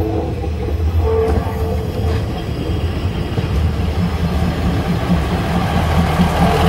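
Diesel train passing slowly at close range, its engine rumbling low, with a brief horn note about a second in and a rhythmic engine beat building toward the end.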